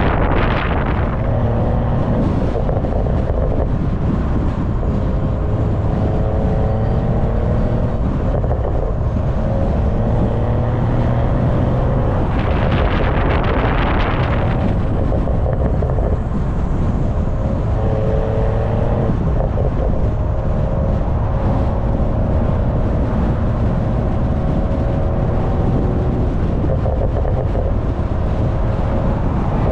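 BMW M340i's turbocharged 3.0-litre B58 inline-six heard from the exhaust end while driving, its note rising and then dropping away several times, under heavy wind buffeting on the microphone. About halfway through there is a rush of noise lasting about two seconds.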